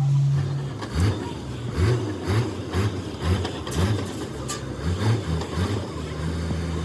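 Vehicle engine running steadily, then revved in quick repeated blips about twice a second, then settling back to a steady idle near the end.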